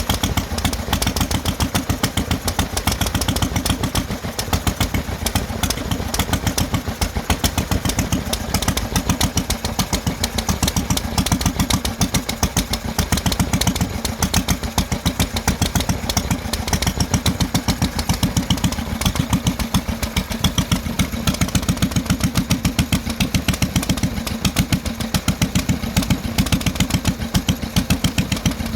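Three engines running together, a steady fast chugging of firing strokes with no change in speed.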